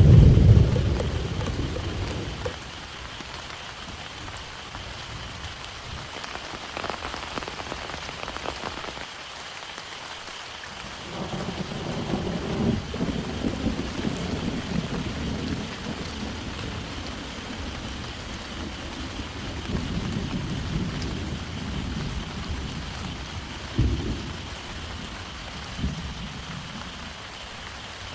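Heavy rain falling steadily, with thunder: a loud low rumble dies away over the first two seconds, low rumbling rolls in again about a third of the way through, and a short sharp low thump comes near the end.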